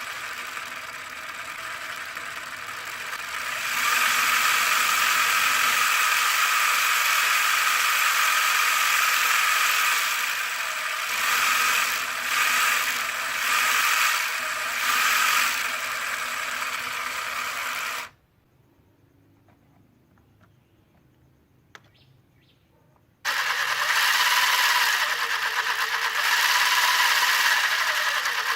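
A small motor whirring steadily with a rattle, louder after about four seconds and pulsing briefly in the middle. It cuts out for about five seconds, broken by a single click, then starts up again at full speed.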